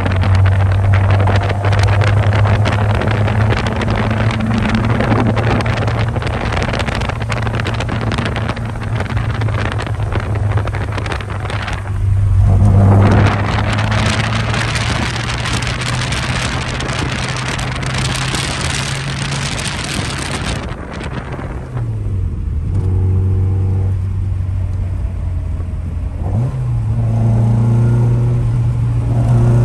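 1963 Morris Mini Cooper's A-series four-cylinder engine running while driving, heard from inside the cabin under a loud hiss of road and wind noise. About two-thirds of the way through the hiss drops away, leaving the engine note, which dips briefly and then climbs and grows louder near the end.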